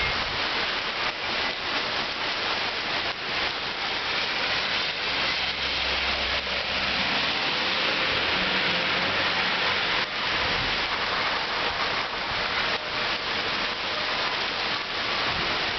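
Heavy rain falling steadily, a dense hiss of drops and splashes on hard surfaces. A low hum rises underneath from about five seconds in and fades out around ten seconds.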